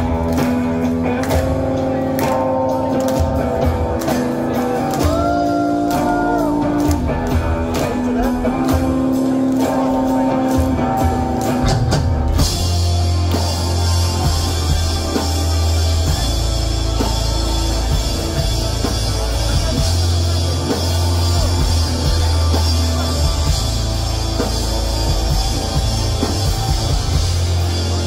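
Pop-punk band playing live: an instrumental intro of sustained melodic notes, then about twelve seconds in the full band comes in with drums, bass and guitars at full volume.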